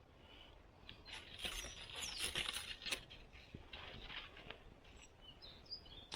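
Rustling and crackling for about two seconds, with a few small bird chirps near the end.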